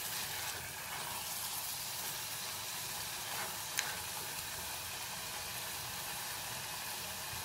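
Chicken pieces in green masala sizzling steadily in a clay pot as they are stirred with a silicone spatula, with one sharp tick a little before the middle.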